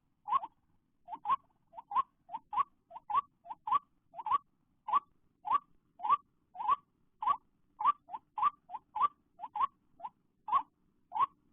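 White-breasted waterhen calls: short, rising, hoarse notes repeated about twice a second in a steady run.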